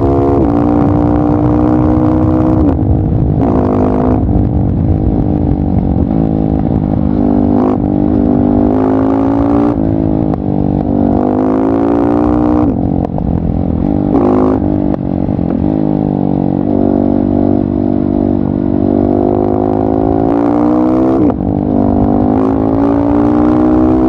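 KTM 690 SMC R single-cylinder engine through a LeoVince exhaust, ridden with the throttle opening and closing: engine pitch climbs and falls again and again, with several short, sharp bursts of throttle in between.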